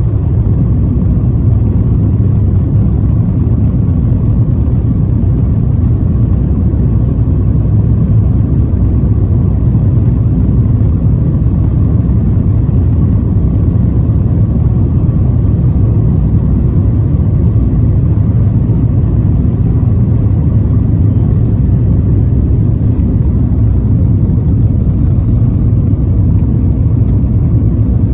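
Cabin noise of an Airbus A350-1000 in flight, heard from inside the cabin: a loud, steady low rumble of engines and airflow that does not change.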